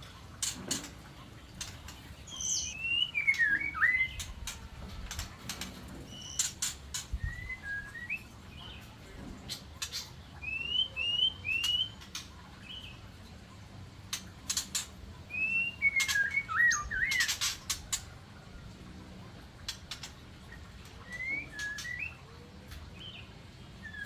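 Aviary birds chirping and whistling in short phrases of gliding notes that come in bursts every few seconds, with sharp clicks and taps scattered between them.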